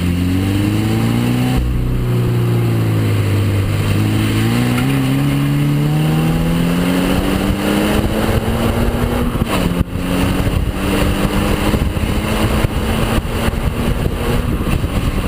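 Subaru BRZ / Toyota GT86 flat-four boxer engine and exhaust under way. It revs up and eases off, then pulls in a long steady climb in pitch, drops with an upshift about ten seconds in, and climbs again.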